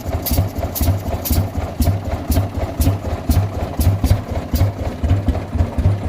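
1922 Rumely OilPull 16-30H tractor's horizontal two-cylinder engine running steadily at a slow idle after its revival, with an even low beat and a sharp tick about twice a second.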